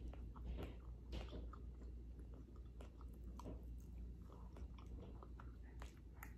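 A person chewing a mouthful of food close to the microphone: faint, soft mouth sounds with scattered small clicks and crackles.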